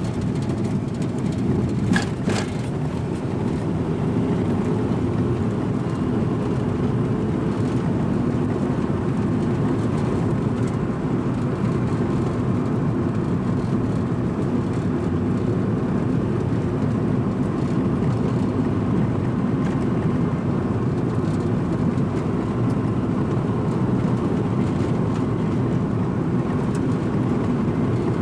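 Strong coastal wind buffeting the microphone: a loud, steady low rumble.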